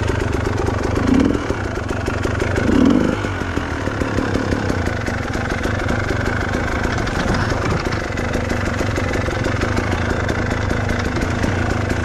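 Honda CRF trail motorcycle engine running steadily, swelling louder briefly twice in the first three seconds.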